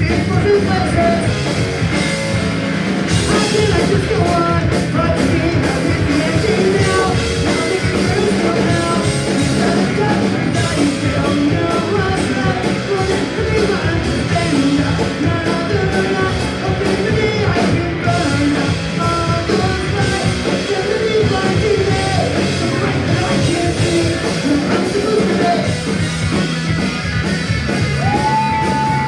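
Live punk rock band playing: distorted electric guitars, bass and drum kit with sung, partly yelled vocals. A single high tone is held near the end.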